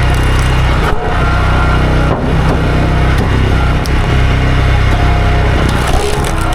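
Two-stroke chainsaw running at high throttle, cutting through a stump, its engine note dipping briefly about one and two seconds in.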